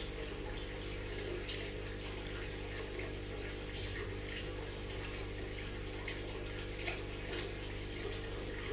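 Aquarium water trickling and bubbling steadily, with many small splashes, over a constant low hum from the tank's pump.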